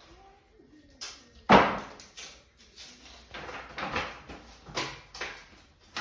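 A sharp bang about one and a half seconds in, like a door or object knocked shut, followed by a run of short rustling or scraping strokes, about two a second.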